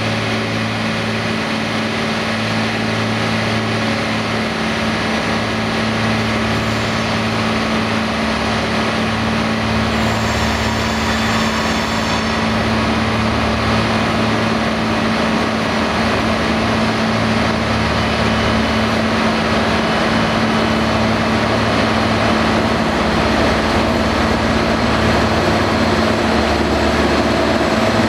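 Train running with a steady hum and low rumble, growing slightly louder toward the end, with a brief high whine about ten seconds in.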